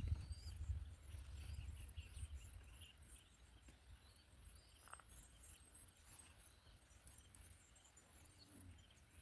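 Faint outdoor ambience: a steady, high insect chirring with a few faint short chirps, over a low rumble that fades in the first second.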